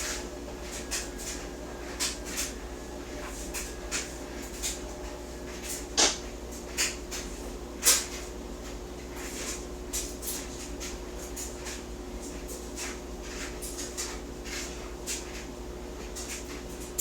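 Scattered small clicks and taps of makeup items being handled, with two louder clicks about six and eight seconds in, over a steady faint hum.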